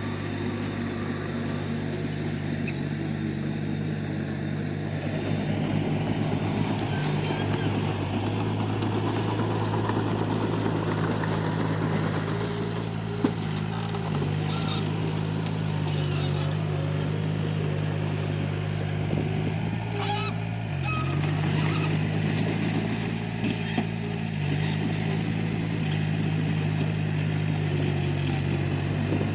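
Komatsu D31P bulldozer's diesel engine running steadily under load. A rougher scraping and rattling layer builds about six seconds in, with a few sharp knocks, the clearest near the middle.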